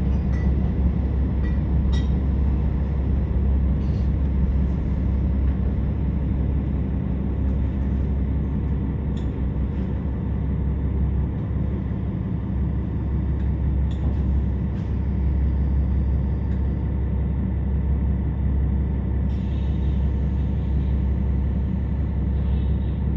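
Interior running noise of a KiHa 47 diesel railcar slowing into a station: a steady low engine drone with wheels on the rails and a few short rail-joint clicks in the first half, then the engine carrying on steadily once the train has stopped.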